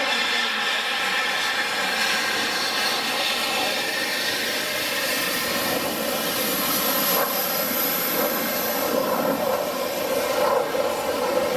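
F-16 fighter jet's engine running loud and steady as the jet flies its demonstration, with a thin high whistle coming in about halfway through.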